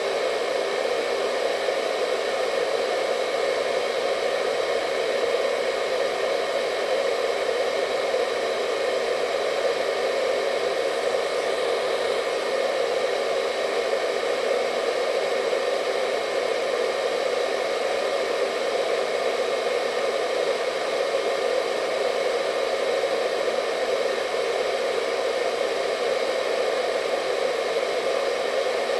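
Hair dryer running continuously: a steady blowing hum with a faint high whine from the motor, unchanging throughout.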